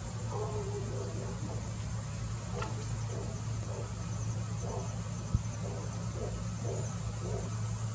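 A steady high-pitched chorus of insects such as crickets, over a low steady hum, with faint short sounds recurring every half second or so and one brief click midway.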